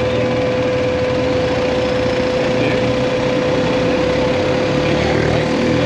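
BMW GS Adventure motorcycle engine running steadily while riding, heard from on the bike, with a steady hum sitting over the engine noise.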